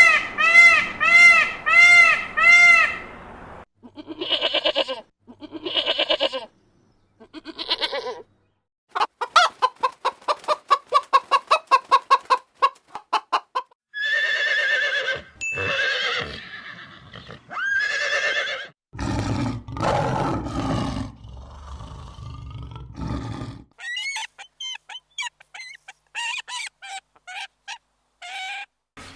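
A string of farm-animal calls from separate clips, with chickens clucking and fowl calls most prominent. A rapid run of clucks comes near the middle, and short high chirps come near the end.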